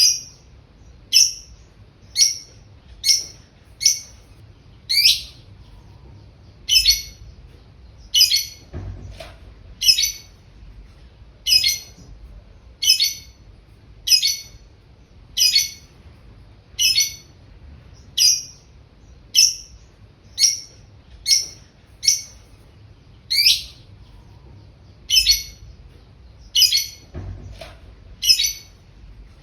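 A bird giving short, high chirps over and over, about one a second.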